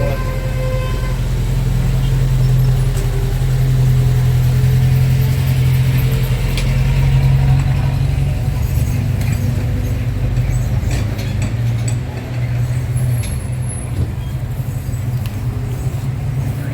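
A motor engine running steadily with a low, even hum, with faint scattered clicks and background noise over it.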